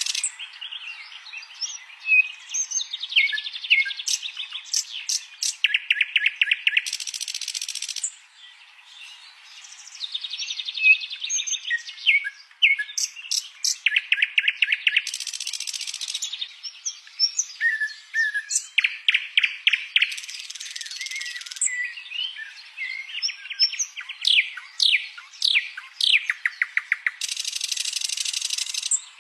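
Songbird masteran recording: about-second-long buzzing phrases alternate with fast rattling trills and sharp downward-sweeping whistles, the sequence repeated several times in rapid-fire 'tembakan' style.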